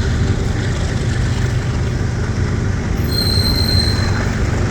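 A train rolling past with a steady low rumble, and a brief high-pitched wheel squeal about three seconds in.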